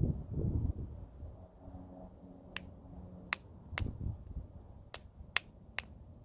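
Stone being flintknapped, struck with a homemade bopper: six sharp clicking knocks over about three seconds, starting a little before halfway through.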